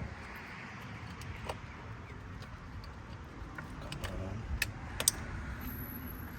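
A few light clicks and clinks of parts and tools handled in a car's engine bay while coil packs are being fitted over the spark plugs, the sharpest about five seconds in, over a low steady rumble.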